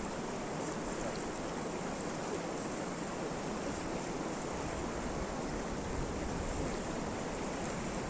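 Steady, even rushing noise outdoors, with no distinct knocks or voices.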